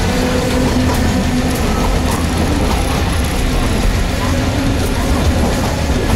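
Keifuku Electric Railroad (Randen) electric car running, heard from inside the front of the car: a steady low rumble of wheels on rail, with a few light clacks as it rolls over a set of points.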